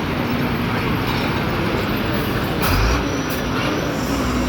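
Heavy truck running with a steady rumble and hum, and a louder low thud about two and a half seconds in.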